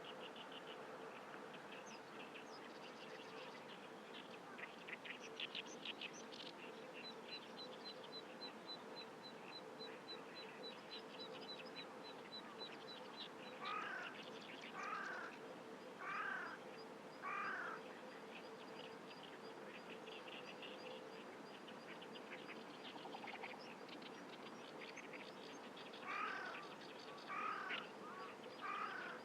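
Wild birds calling: scattered high chirps, then a long even run of quick high ticks, then loud harsh caw-like calls, four in a row about a second apart and later three more.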